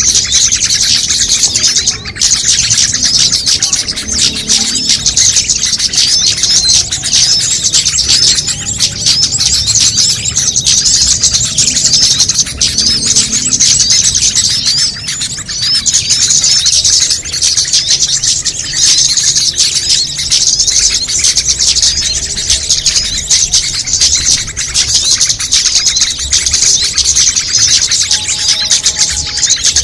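A dense, unbroken chorus of many small songbirds calling over one another in rapid high chirps and trills. It is a layered bird-lure (pikat) recording made to draw small birds in.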